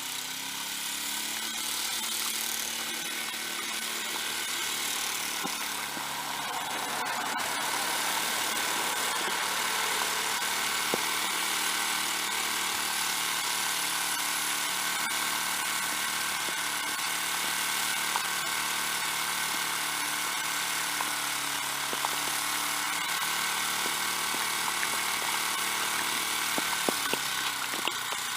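Snowblower's small gasoline engine running steadily. Its speed picks up just after the start and drops back near the end, with a few light ticks along the way.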